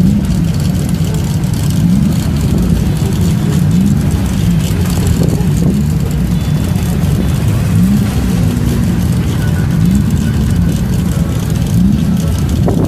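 Classic racing car engine running hard and loud, its pitch rising and dropping again every second or two through the whole stretch.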